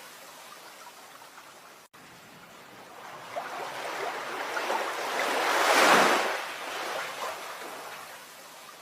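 Rushing water with no pitch to it. It drops out for an instant about two seconds in, then swells to a loud peak around the middle and fades away, like a wave surging in and washing back.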